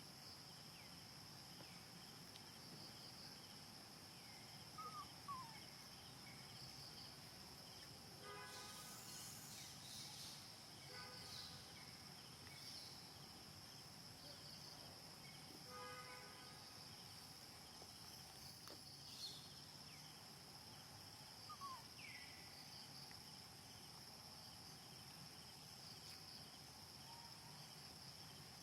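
Faint steady high-pitched insect chirring, with a few short falling whistled calls now and then.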